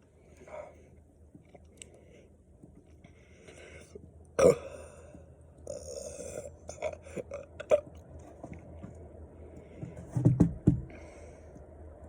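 A man burping after chugging carbonated energy drink. There is a sharp crack about four seconds in and scattered clicks after it, and the loudest, deepest burp comes about ten seconds in.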